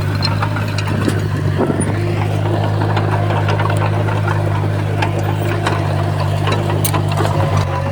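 Komatsu bulldozer's diesel engine running steadily under a constant low drone, with scattered sharp clanks and knocks throughout.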